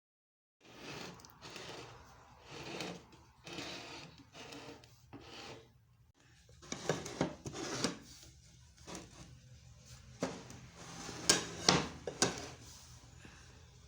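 Irregular rubbing and scraping handling noises, with a few sharp clicks or knocks about eleven to twelve seconds in.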